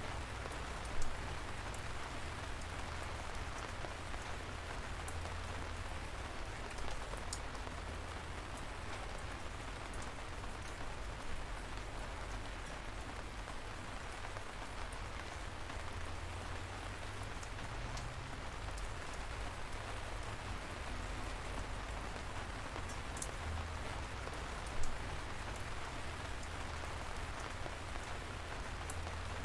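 Steady light rain falling, an even hiss with a low rumble beneath, and now and then a single sharp drip, clearest about a second in and again near the end.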